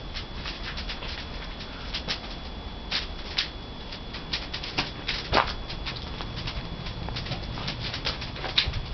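Debarked pine firewood crackling and popping as it burns in a traditional wood-fired kiln: irregular sharp snaps over a low steady rumble, the loudest pop about five seconds in.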